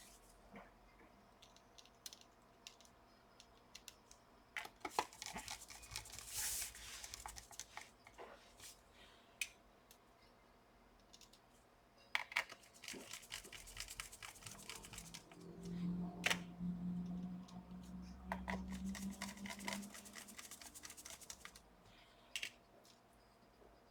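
Small clicks and scrapes of screws and hand tools working on a laptop's bottom case during reassembly. A low steady hum joins in for a few seconds past the middle.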